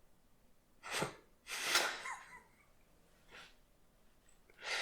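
A person's breathy noises: four short, sharp bursts of breath with silence between, the longest and loudest about two seconds in.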